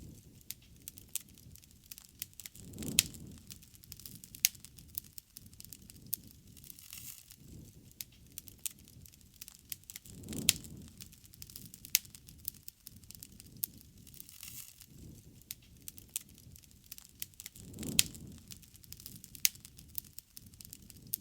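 Wood bonfire crackling, with sharp irregular pops over a low, soft burning noise that swells three times.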